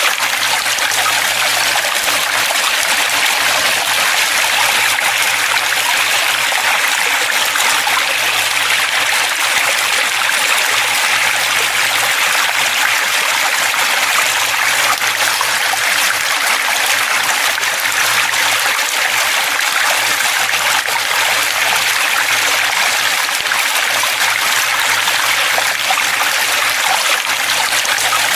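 Flowing water running steadily: an even, bright rush with little low rumble, unchanging throughout.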